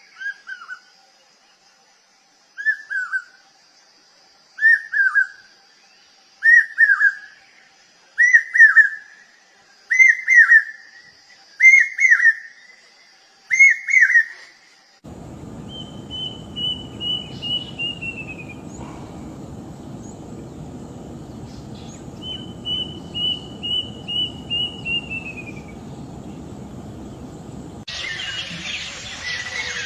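Bird calls from spliced recordings. First a single call repeated about every two seconds, each a short downward-curving note, growing louder. Then, over a steady hiss, two runs of quick high notes that drop in pitch at the end.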